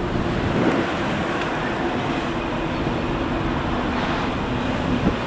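A train running: a steady noise with a faint low hum.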